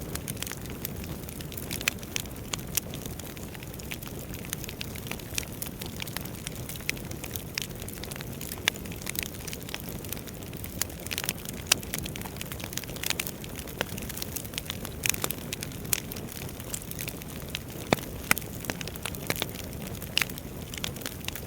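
Wood fire burning in a fireplace, crackling with frequent irregular sharp pops and snaps over a low steady rush of the flames.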